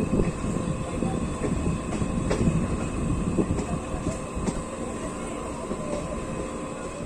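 Suburban EMU local train running on the rails, heard from its open doorway: a steady rumble of wheels on track with irregular sharp clicks as the wheels pass over rail joints and points.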